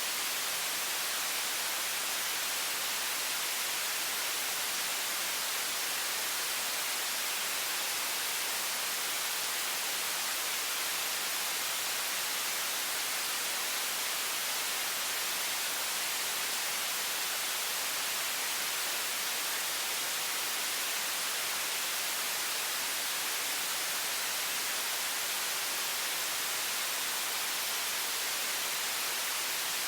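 High-pressure water faucet stream giving a steady, even hiss, strongest in the high frequencies, with no change in level.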